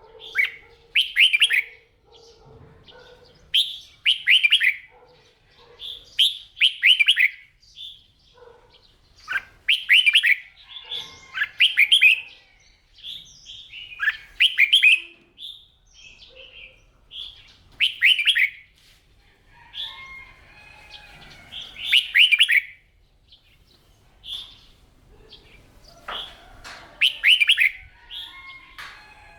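Red-whiskered bulbul singing: short, bright warbled phrases repeated every second or two.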